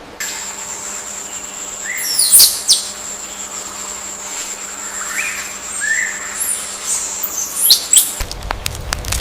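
Birds chirping, with short sweeping calls, over a steady high-pitched insect drone. About a second before the end the drone stops and a crackling, crunching sound begins.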